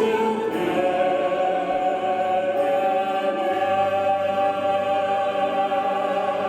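A vocal quartet singing with accompaniment, settling about a second in into one long, steady held chord that closes the song.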